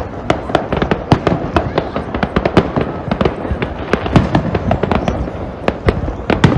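Fireworks display going off: a rapid, irregular string of sharp pops and bangs, several a second, over a steady rumble.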